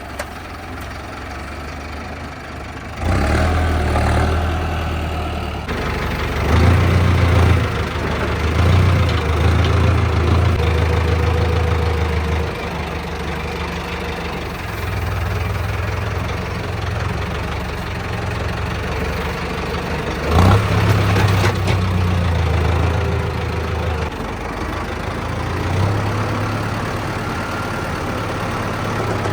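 Diesel tractor engine running under load, its low note getting louder about three seconds in and then swelling and easing. A single sharp clank sounds about two-thirds of the way through.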